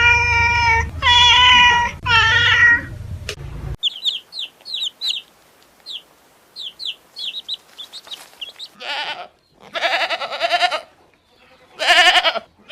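A sequence of farm animal calls: three drawn-out bleats like a goat's in the first few seconds, then a run of short, high chirps from small birds, then more bleat-like calls near the end.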